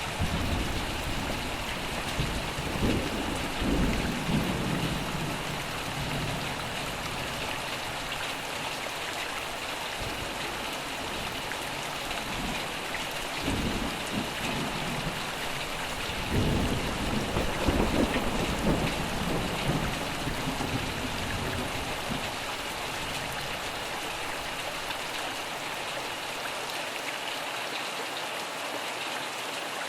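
Steady rain with rolling thunder: one long roll rumbles in the first few seconds, and a second, louder roll starts about halfway through and fades over several seconds.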